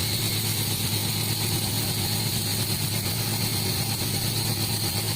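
Sawmill machinery running steadily: a constant engine-like drone with a high whine above it, unchanging throughout.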